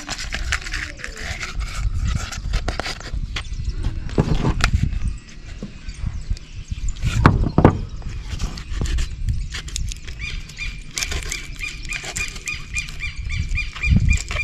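Irregular knocks, taps and clicks of hands-on building work, with a few heavier thumps. In the last few seconds a high, rapidly pulsing chirp joins in.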